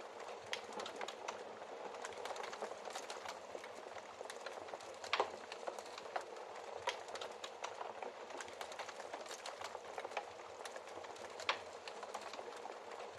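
Wood fire crackling in a fireplace: a steady bed of small crackles with a few louder pops, the loudest about five seconds in and others near seven and eleven seconds.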